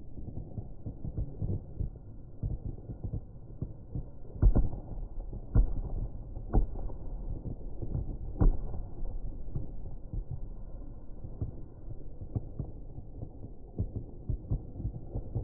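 Fireworks exploding in a dense, continuous run of dull low booms, with four louder bangs between about four and eight and a half seconds in.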